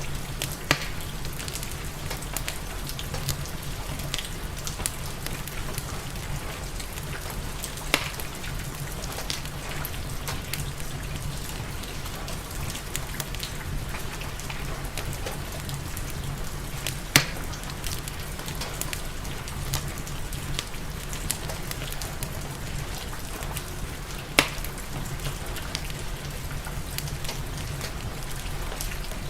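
Steady rain with a fireplace crackling, and four sharp pops standing out over the even hiss of the rain.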